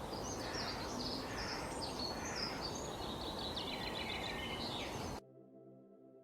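Several small birds chirping and twittering in quick high calls over a steady outdoor rushing background noise. The recording cuts off suddenly about five seconds in, leaving soft ambient music with held tones.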